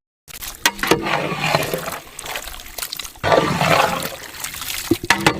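Water sloshing and splashing, with scattered knocks, in two stretches.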